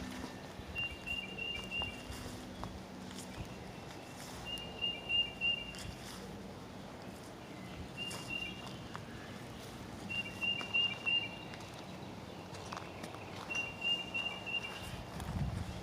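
A bird repeating a short, high, pulsed phrase at one pitch, each about a second long, about every three seconds, with scattered light footsteps or twig clicks.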